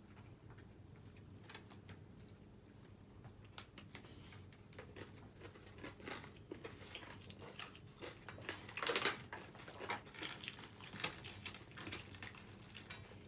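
Eating crisp fried cabbage pakora: bites and chewing with crunching and crackling. It gets busier a few seconds in, with the loudest crunches about nine seconds in.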